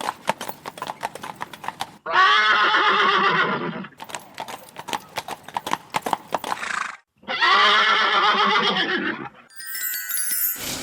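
Horse hooves clip-clopping in a steady trot, broken twice by a long whinny.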